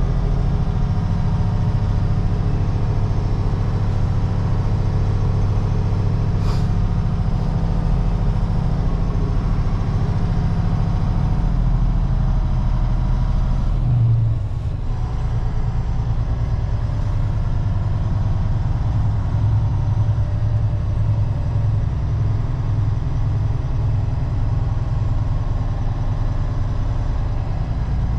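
Heavy truck diesel engine running steadily, its note changing about halfway through.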